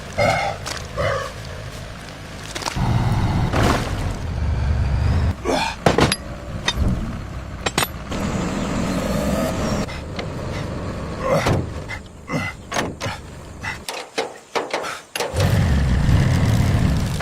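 A heavy vehicle's low engine rumble coming and going in spells, broken by repeated knocks and clunks.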